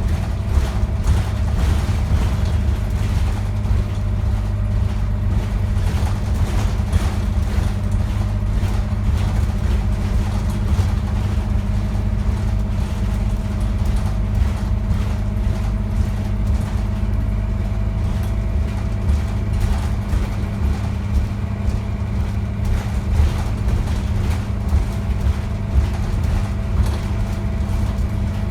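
Scania N230UD Optare Visionaire double-decker bus driving, heard from on board: a steady low engine and road rumble with a faint steady whine and frequent rattles and knocks.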